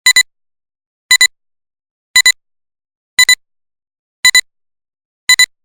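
Electronic beeps: six double beeps, about one pair a second, each pair two short high tones close together.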